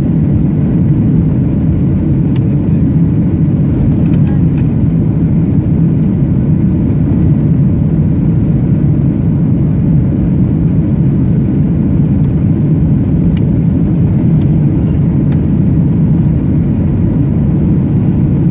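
Steady cabin noise of a Boeing 737-700 airliner in flight: a loud, even rumble of the jet engines and airflow heard from a window seat inside the cabin.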